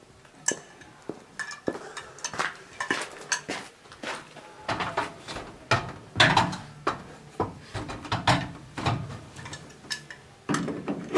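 Irregular metallic clinks and knocks of hardware being handled while an electric hoist and its mount are fitted into place, getting busier about halfway through.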